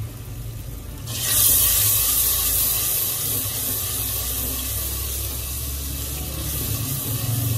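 Spiced onion-tomato masala sizzling in oil in a clay handi while it is stirred with a wooden spoon; the hiss starts abruptly about a second in and slowly dies down.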